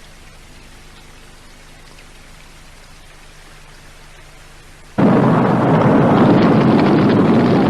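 Film crash-scene sound effect: a faint steady hum, then about five seconds in a sudden loud roar, like a car exploding and burning, that sets in all at once and holds without fading.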